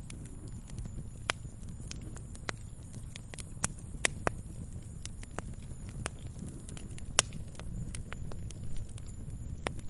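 Wood fire crackling in a fireplace: irregular sharp pops and snaps over a steady low rumble of flames, with the loudest pops about four and seven seconds in.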